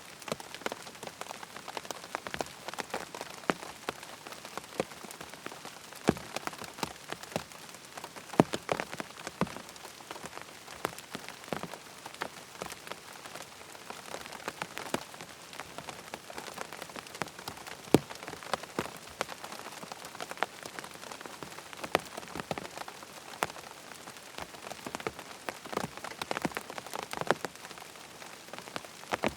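Steady rain falling on a tent: an even hiss with many individual drops landing as sharp ticks, a few heavier drops standing out.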